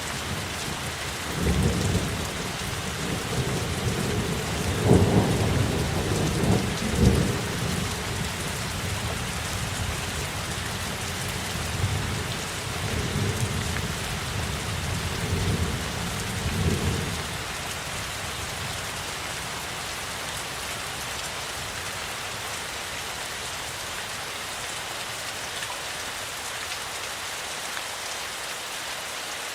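Steady rain hiss with rolling thunder: low rumbles build about a second and a half in, peak with a few sharper cracks around five to seven seconds, rumble again from about twelve to seventeen seconds, then die away, leaving only the rain.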